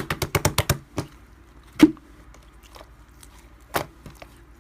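A quick run of about a dozen sharp clicks in the first second, then five or so separate clicks and taps, the loudest a little under two seconds in.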